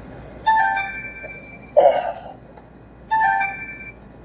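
A mobile phone ringtone chiming twice for an incoming call, each ring a short multi-note chime lasting about a second. A brief louder sound falls between the two rings.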